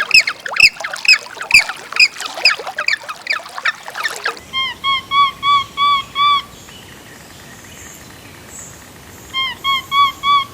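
Waterfowl calling loudly in a dense flock, with rapid falling honking calls, which cut off abruptly about four seconds in. A different bird follows with two runs of short, evenly spaced piping notes, about three a second, separated by a few seconds of quiet background.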